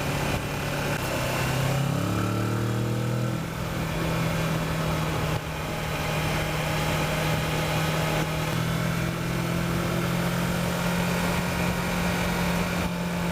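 Kawasaki Versys motorcycle engine running under way, rising in pitch as the bike accelerates about two seconds in, then holding a steady note at cruising speed, with wind noise.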